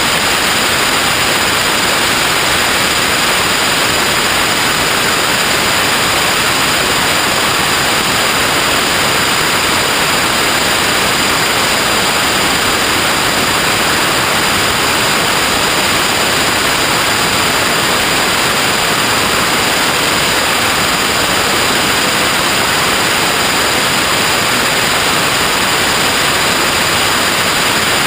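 Loud, completely steady static-like hiss, with a couple of faint steady high-pitched whines running through it.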